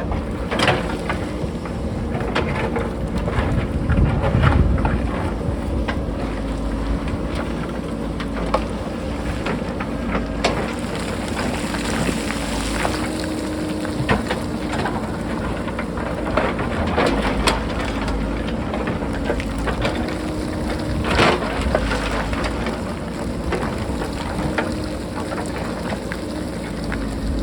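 JCB backhoe loader's diesel engine running steadily under load, with rock clattering and sharp knocks as the machine works a rocky hillside; one louder knock comes near the end.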